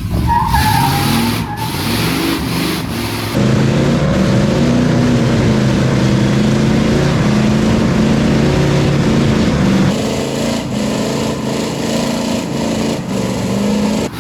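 Two big-block Chevy V8 Silverado pickups revving hard under load as they pull against each other. The engines get louder about three and a half seconds in and hold there, their pitch wavering as they strain, with a short whistle near the start.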